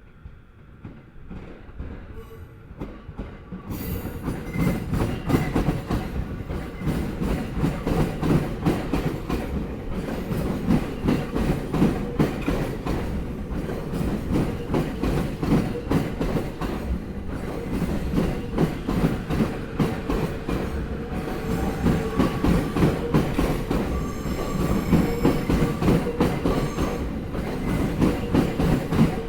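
A train's wheels clattering loudly and rapidly over rail joints, a dense run of knocks that builds up over the first four seconds and then keeps on as the cars roll past.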